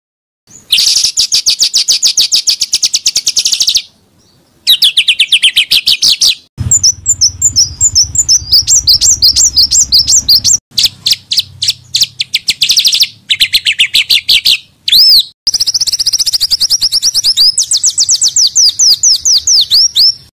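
Small songbirds giving rapid-fire 'tembakan' phrases: fast trains of sharp, high repeated notes, several phrases of a few seconds each, cut in one after another with short silences between. A low hum runs under one phrase in the middle.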